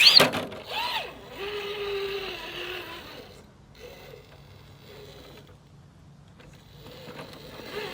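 Electric motor and geartrain of a Superlight SV1 RC rock crawler whining in a short steady burst as it pushes up a rock obstacle, with tyres scrabbling, then only faint, intermittent motor noise.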